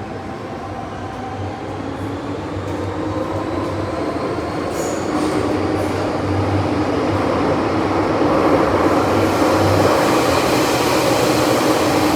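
MTR Island Line M-train picking up speed, its running noise growing steadily louder with a faint motor whine rising in pitch.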